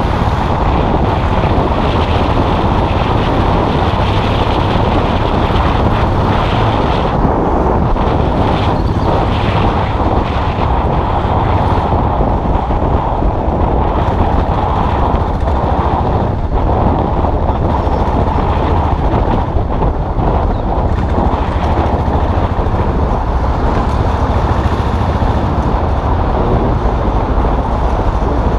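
Custom motorcycle's engine running steadily while riding.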